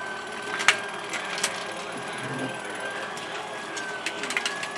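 Motorized ROKR wooden marble run running: a steady, slightly wavering high whine with wooden gears ratcheting and a few sharp clicks of marbles, several of them close together near the end.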